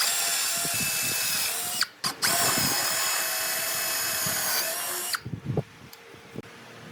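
Electric hand-held power tool with a steady high whine, running for about two seconds, stopping briefly, then running again for about three seconds before cutting off. A few light knocks follow.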